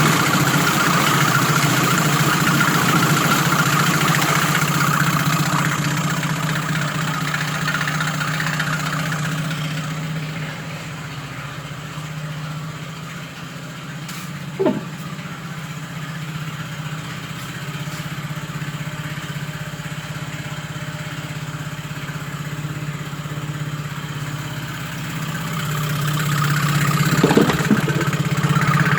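Yamaha F25 four-stroke outboard motor running at idle, steady and unloaded. It grows softer through the middle and louder again near the end, with a short knock about halfway and another near the end.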